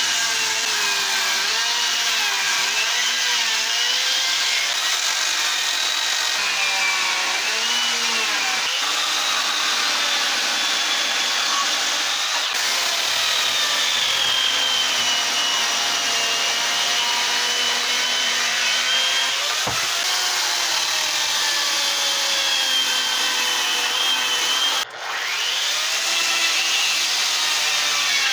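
Electric die grinder with a burr cutting into wood, its motor pitch wavering up and down as the load changes. About 25 seconds in it cuts out for a moment and then spins back up.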